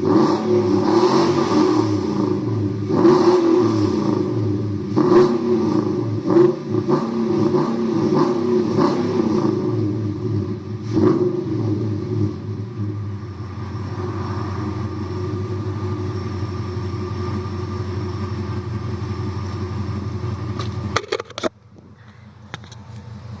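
2004 Nissan Titan's 5.6-litre V8 breathing through Stillen headers and a JBA exhaust, revved in several short blips for the first dozen seconds, then settling to a steady idle. The engine sound drops away sharply near the end.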